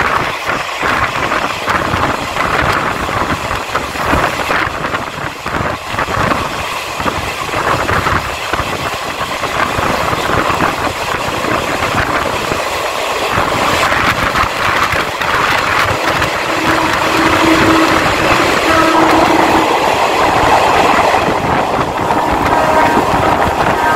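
Taiwan Railway passenger train running along the line, wheels rattling on the rails and wind rushing past an open coach window. About two-thirds of the way in, two short train-horn blasts of about a second each sound over the running noise.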